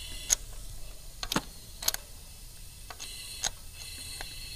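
Several sharp, irregular clicks and ticks of tools and fittings being handled on the engine. Under them runs a faint, steady high hiss of compressed air from the cylinder leak-down tester pressurising the cylinder.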